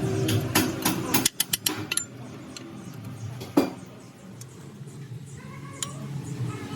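Metal parts and hand tools clinking and knocking, with one sharper ringing metal knock in the middle. A steady low hum cuts off about a second in.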